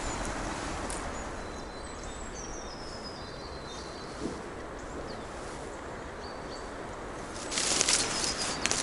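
Forest ambience: a steady low rumble of wind and distant road traffic with small birds chirping high. About seven and a half seconds in, a loud rustling and crunching lasts about a second.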